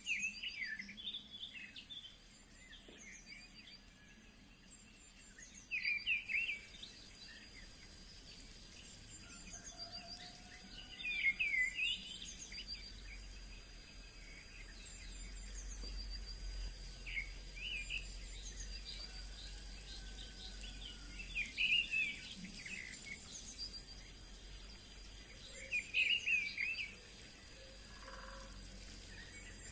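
A bird singing short chirping phrases about every five seconds over a faint steady background hiss, with a thin high steady tone running under it.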